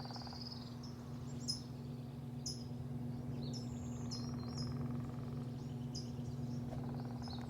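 Small birds chirping, short high chirps about once a second, over a steady low machine hum.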